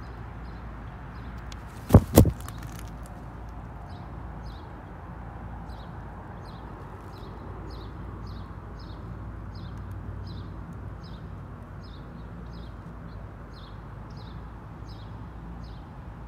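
Steady low outdoor rumble with two sharp knocks about two seconds in, then a small bird's short high chirps repeated about twice a second in the background.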